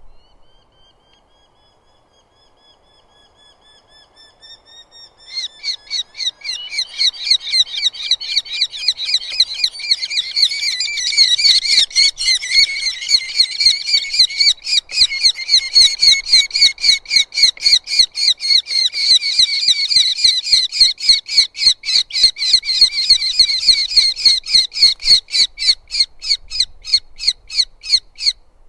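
Eurasian hobby calling at the nest: faint calls at first, then from about five seconds in a long, loud run of rapid, repeated sharp calls, about four a second, that stops just before the end.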